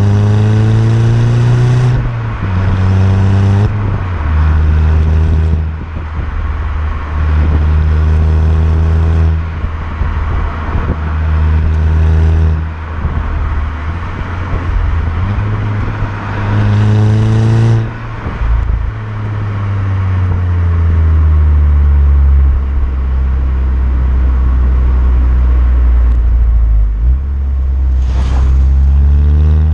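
VW Golf Mk6 GTI's 2.0 TSI turbocharged four-cylinder engine and exhaust while driving. The revs rise in a series of short pulls that break off and drop several times, then fall slowly for about nine seconds and climb again near the end.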